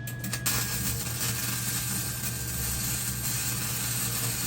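Electric welding arc crackling and sizzling steadily during a tack weld on steel, struck with a few sharp pops and then held for about four and a half seconds before cutting off.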